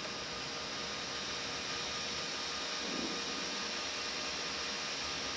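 Steady cockpit noise of an Airbus A319 in the climb: an even rush of airflow and engine noise with a faint steady hum.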